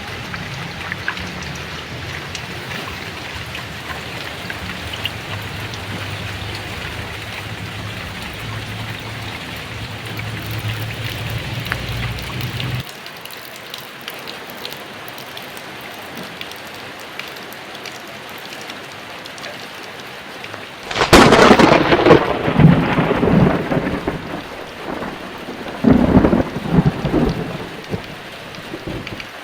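Heavy rain falling steadily, with a low rumble of thunder that cuts off suddenly about halfway through. Two-thirds of the way in, a loud thunderclap breaks and rolls away over a few seconds. A second, shorter roll of thunder follows near the end.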